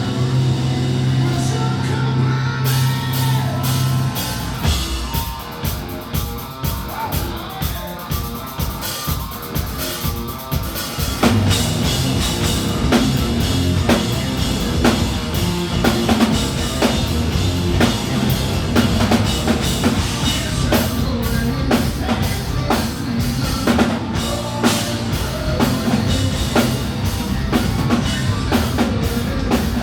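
Rock band playing live, with drum kit, electric guitars and bass. A held low note opens it, then the drums take over in a steady beat, and the whole band comes in fuller about eleven seconds in.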